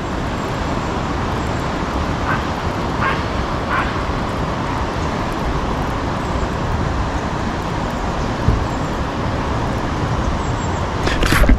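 A dog barks three times in quick succession, over a steady rushing background noise. There is a brief loud rustle near the end.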